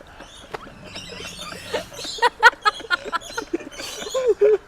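Birds chirping and calling in an aviary: a stream of short, quick calls, most crowded about two seconds in.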